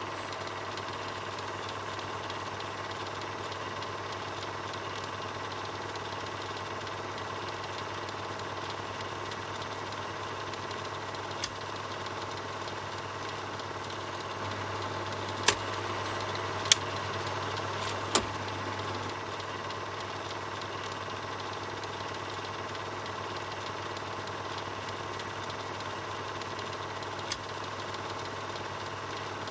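Film projector running steadily: a continuous mechanical whir over a low hum. A few sharp clicks cut through it, three of them close together around the middle and single ones before and near the end.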